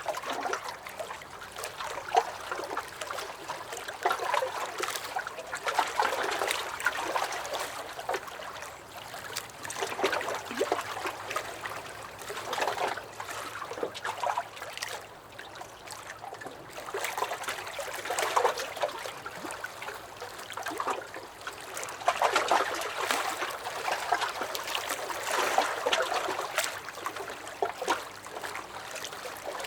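Small lake waves lapping and splashing against a dock, a continuous irregular wash of water that swells and eases every few seconds with small splashes and trickles.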